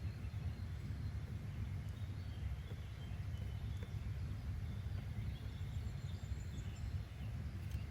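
Outdoor nature ambience: a steady low rumble with faint, scattered bird chirps over it.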